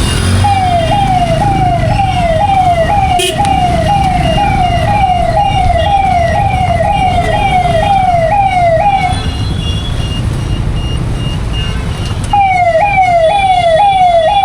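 Siren yelping in fast falling sweeps, about two a second, over the low rumble of road traffic. It stops around nine seconds in and starts again about three seconds later.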